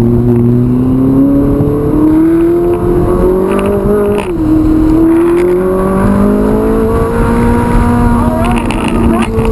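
Ferrari 458 Italia's naturally aspirated V8 pulling hard under acceleration, its pitch climbing steadily. It drops sharply at an upshift about four seconds in, then climbs again and levels off near the end.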